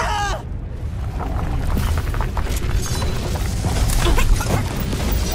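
Cartoon sound effects: a short cry at the very start, then a deep rumble that slowly grows louder, with clatter and knocks, as a train of toy mine wagons rolls along the rails.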